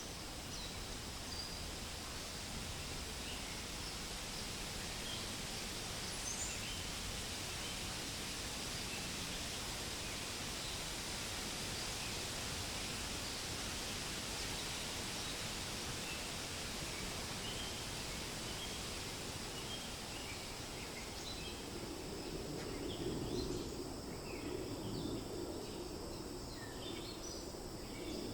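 Wind rustling through tree leaves in a steady hiss, with scattered small bird chirps. In the last several seconds a lower rushing sound swells and the chirps come more often.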